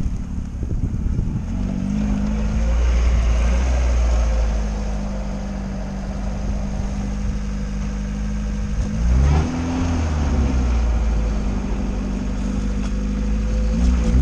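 Lada Niva's engine running while the car is driven off-road, its revs changing around two seconds in and again more sharply near nine seconds in.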